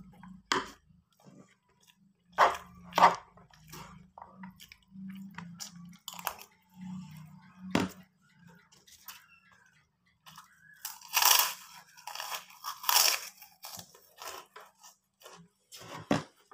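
Close-up chewing and crunching of a mouthful of food eaten from a spoon, with a few sharp clicks scattered through and a run of louder crunches a little past the middle.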